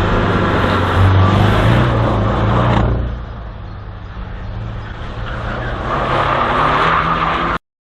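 Race car engine pulling hard through a slalom run, easing off about three seconds in and building up again near the end, then cutting off abruptly.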